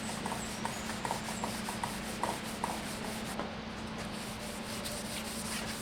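Sandpaper rubbing around a stave drum shell, a steady scratchy sanding sound with a faint low hum underneath.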